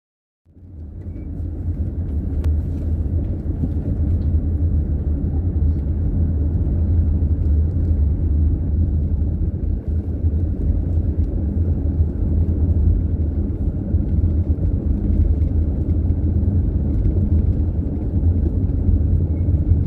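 A car driving along a city street: a steady low rumble of engine and road noise that fades in about half a second in and then holds level.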